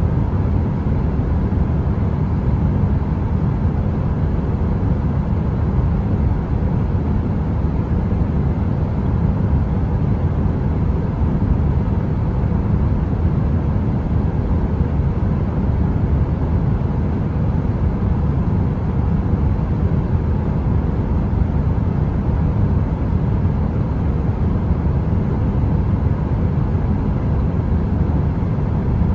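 Steady brown noise of the heater-sound kind: a deep, even rumble with most of its weight in the low end, unchanging throughout, with no crackling.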